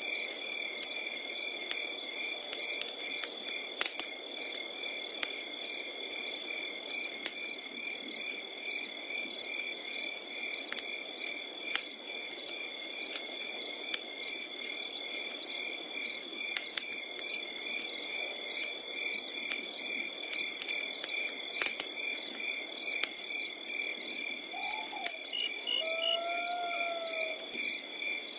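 Crickets chirping in a steady pulsing rhythm over a continuous insect trill, while a wood campfire crackles with scattered sharp pops. A brief rising-and-falling animal call sounds near the end.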